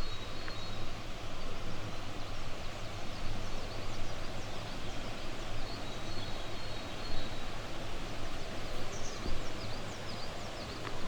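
Steady rush of a flowing river, with small birds chirping over it: a high held twitter twice and a run of quick falling chirps near the end.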